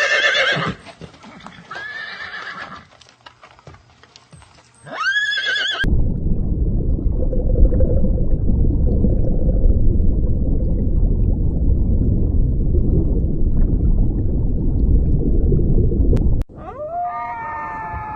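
Three short animal calls, each rising then held, in the first six seconds, followed by about ten seconds of loud low rumbling noise that stops abruptly. A new, lower call falling in pitch begins near the end.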